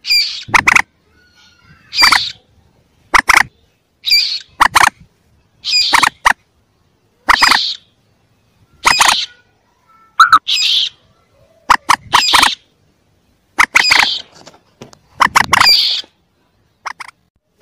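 Common moorhen chick calls played as a hunting lure: short, loud, squeaky calls repeated roughly once a second, several coming as quick doubled or tripled notes.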